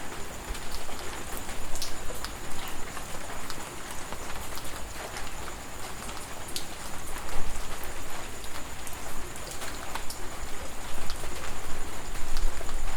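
Steady tropical rain falling, with many separate drops ticking sharply through the even hiss.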